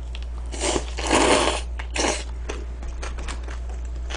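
Eating and food-handling noises close to the microphone: a few short crunching, rustling bursts in the first two seconds, then a run of small clicks, over a steady low hum.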